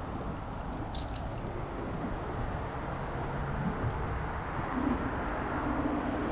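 City street traffic noise heard from a bicycle: a steady rush of passing vehicles, with a couple of sharp clicks about a second in and a low engine-like tone coming in during the second half.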